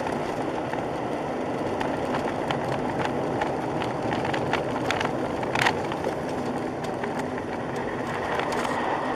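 Steady road and engine noise of a moving vehicle, with scattered small clicks and one louder knock a little past halfway.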